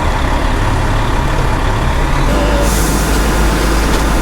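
A heavy vehicle's engine running steadily, its low rumble deepening about two seconds in, with a short hiss of air just after.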